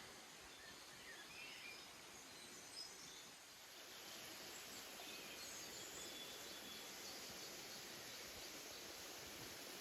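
Faint outdoor ambience: a steady low hiss with a few faint bird chirps, growing slightly louder about four seconds in.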